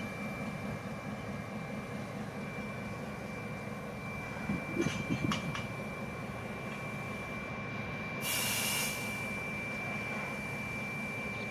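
Locomotives standing at a station: a steady hum with a constant high whine, a few clanks about five seconds in, and a short loud hiss about eight seconds in.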